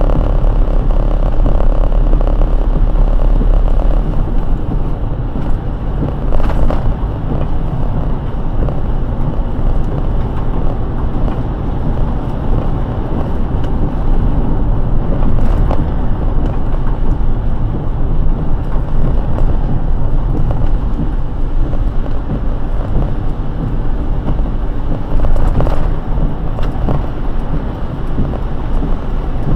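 Car driving on a wet road in heavy rain: steady road and tyre noise with a deep rumble.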